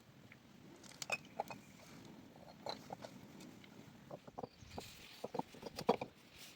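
Scattered, irregular light knocks and clicks, some with a brief ring, the loudest a little before the end.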